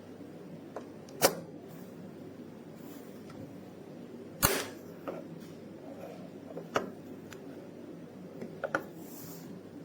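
Four sharp clicks, spaced a couple of seconds apart, over a steady low background noise.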